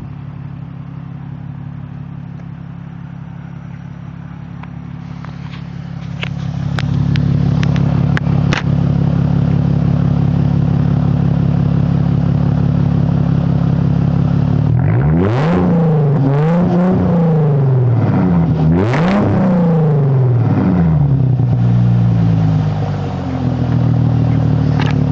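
Chrysler Crossfire's 3.2-litre V6 through a Magnaflow exhaust idling, then revved in three quick blips past the middle, the pitch rising and falling each time, before settling back to idle.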